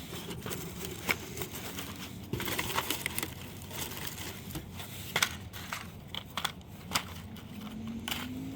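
Plastic-wrapped fireworks packs and the cardboard shipping box being handled, rustling and crinkling, with a few sharp taps as packs are picked up and set down.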